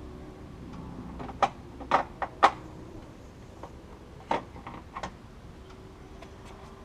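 Hand tools clinking against metal: a few sharp metallic knocks, the loudest about two and a half seconds in, then scattered lighter clicks.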